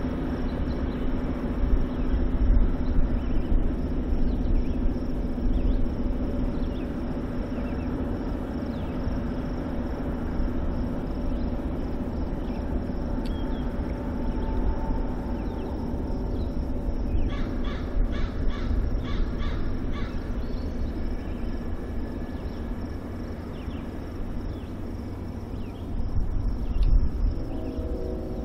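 A bird calling in a quick run of calls about two-thirds of the way in, over a steady low hum and a steady high whine.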